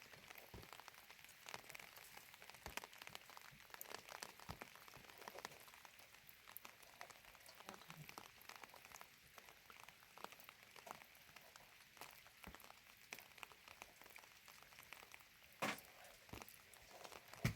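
Faint rain pattering, with many scattered drop ticks and one sharper knock near the end.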